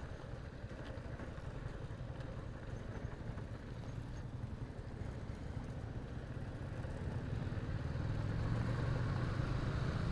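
Motorcycle engine running at low speed, growing louder about eight seconds in.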